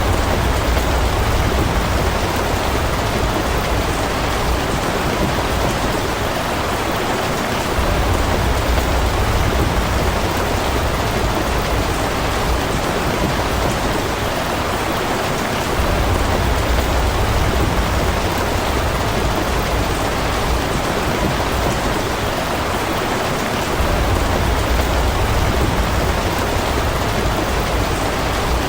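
Steady, heavy rain falling, an even hiss with a low rumble underneath that swells and fades about every eight seconds.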